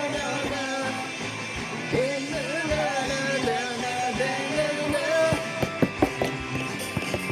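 Rock band music: a wavering lead melody over sustained chords, with sharp drum hits coming in near the end.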